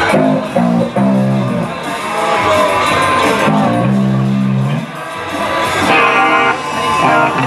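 Band music led by electric guitar, with sustained chords that change every second or so.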